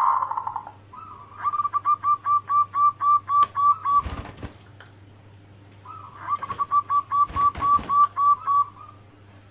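Zebra dove singing: two phrases of quick, evenly repeated cooing notes, about four or five a second, each phrase opening with a longer note. A short crackling noise cuts in near the end of each phrase, over a steady low hum.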